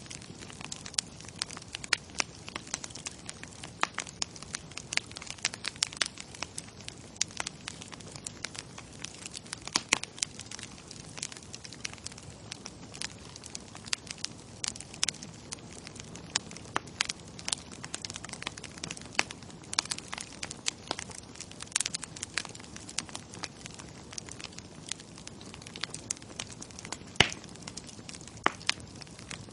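Bonfire crackling: irregular sharp pops and snaps of burning wood over a steady low hiss, with one louder pop near the end.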